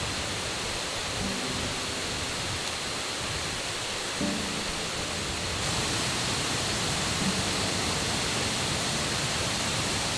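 Steady rush of a mountain river and waterfall running high after the previous day's rain.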